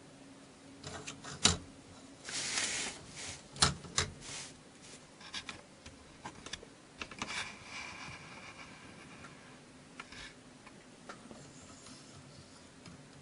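Small metal clicks and short scrapes from a chainsaw file holder being handled and adjusted on the chain bar, with a sharp click about a second and a half in and a brief rubbing stretch midway.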